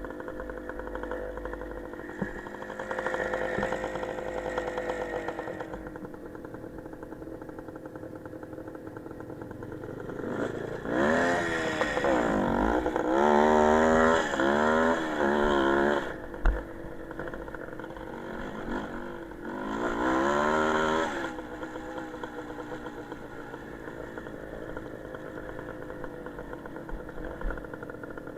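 Small motorcycle engine running, mostly at a steady low speed. About ten seconds in it revs up hard, its pitch climbing and dropping several times, and it revs again about twenty seconds in before settling back. There is a single sharp knock about sixteen seconds in.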